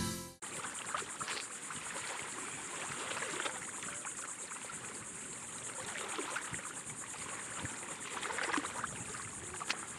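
Water lapping and splashing against a boat, with scattered small splashes, under a steady high-pitched buzz.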